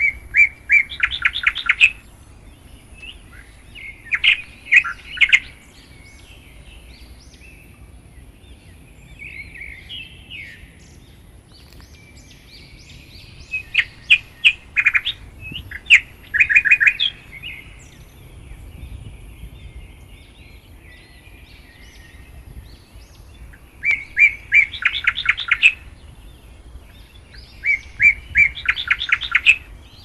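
Birds chirping: about five loud bursts of fast, repeated high chirps, each lasting a second or two, with quieter twittering between them.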